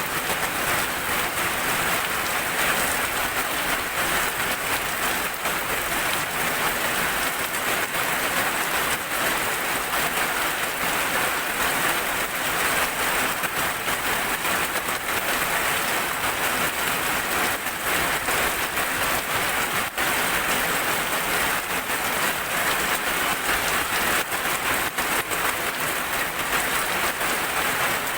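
Steady rain falling, a dense even hiss of many small drop hits, with no thunder.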